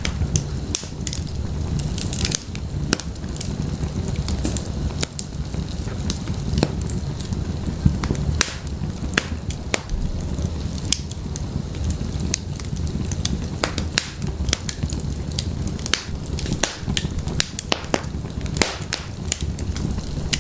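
Wood fire burning in an open fireplace, with a steady low rumble of flames and frequent irregular sharp crackles and pops from the burning firewood.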